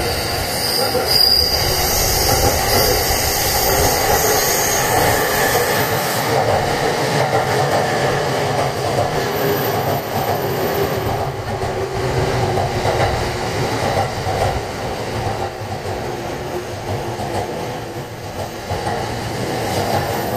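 Electric train running past the platform, with a high wheel squeal in roughly the first six seconds that gives way to a steady rumble of wheels on rail.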